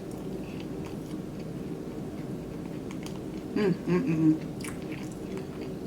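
Close-up mouth sounds of someone chewing and biting a fried chicken sandwich on a glazed-donut bun. There is a short hummed "mm" about three and a half seconds in, followed by a few small crunches.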